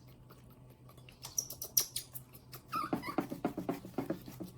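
Pet monkeys making a quick run of short squeaks and clicks, starting about a second in and growing busier in the second half.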